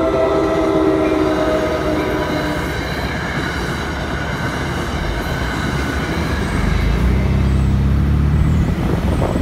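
Train horn of an NJ Transit Comet V cab car sounding one long multi-tone blast, ending about two and a half seconds in, then the train passing. Over the second half a deep, loud diesel engine hum builds as the Bombardier ALP-45DP locomotive, running in diesel mode and pushing at the rear, goes by.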